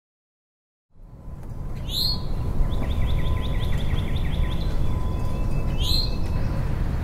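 Outdoor ambience fading in about a second in: a steady low rumble with birds chirping over it, two sharp chirps and a quick run of repeated trilling notes between them.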